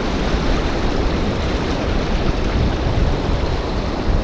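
Steady rushing noise of wind and surf on an open beach, with a heavy, fluttering low rumble.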